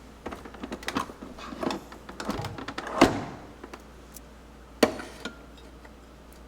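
A string of irregular knocks and clicks, the loudest about three seconds in and one more just before five seconds, then quiet room noise.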